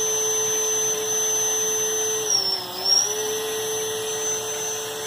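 Small electric motor running with a steady whine. About two seconds in it briefly slows, the whine dipping in pitch, then it speeds back up.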